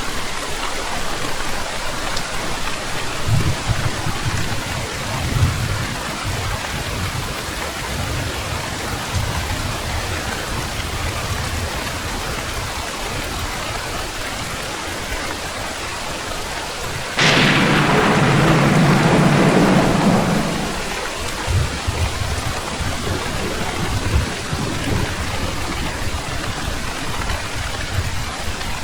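Steady heavy rain falling, with low thunder rumbling in the background. About two-thirds of the way in, a sudden thunderclap cracks sharply and rumbles for about three seconds, the loudest sound.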